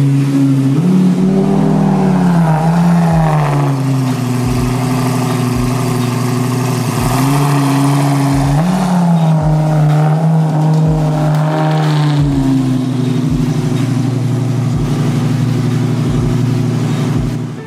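Lamborghini sports-car engine revving: its pitch rises and falls several times over a running engine, with short low thumps underneath.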